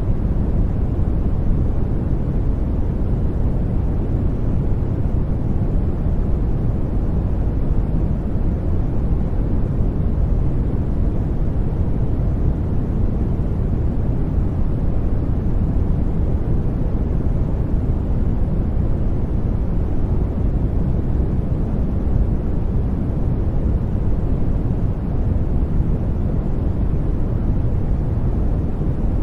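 Brown noise: a steady, even rumble of random noise weighted heavily toward the low end, with no tones, rhythm or events.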